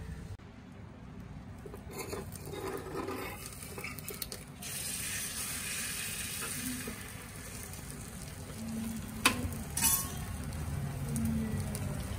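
Food sizzling in a cooking pot while a spoon stirs it. The sizzle grows steady about halfway through, and two sharp clinks of metal on the vessel come near the end.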